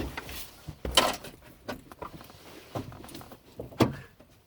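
Knocks, bumps and rattles of someone climbing out of a car through its rear hatch because the doors are jammed, with the loudest thump about a second in and another shortly before the end.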